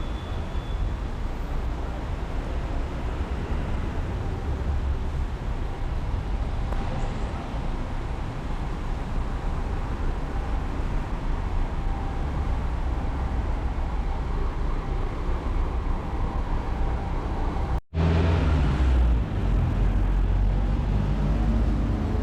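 City street traffic: a steady rumble of cars and other road vehicles passing. Near the end the sound cuts out for a moment and a louder vehicle engine comes in close by.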